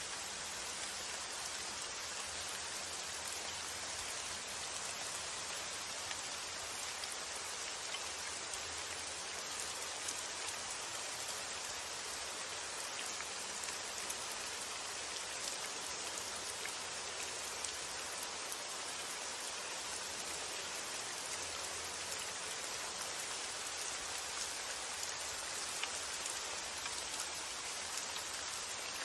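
Steady rain falling, an even hiss with fine scattered drop ticks throughout.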